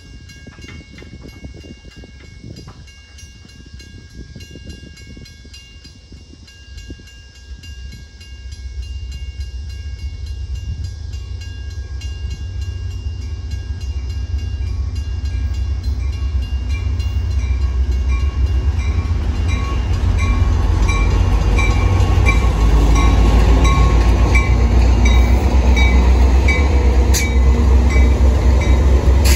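Metra commuter train's diesel locomotive and cars approaching and pulling in: a low engine and wheel rumble that grows steadily louder from about a quarter of the way in until the locomotive is passing close by near the end.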